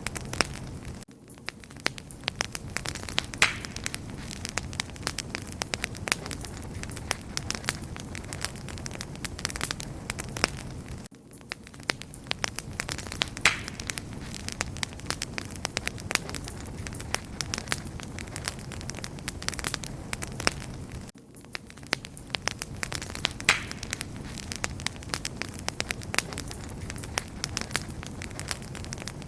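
Wood fire crackling steadily: many sharp pops and snaps over a soft hiss and low rumble of burning. The level dips briefly about every ten seconds.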